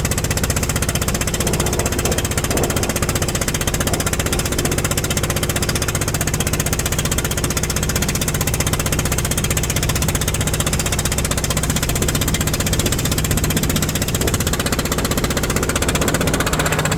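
Fishing boat's engine running steadily with a fast, even clatter.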